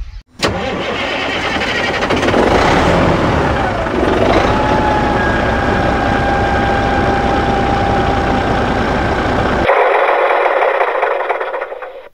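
A small motor running steadily with a noisy clatter. Its whine drops in pitch about four seconds in and then holds steady. The sound changes abruptly near the end and fades out.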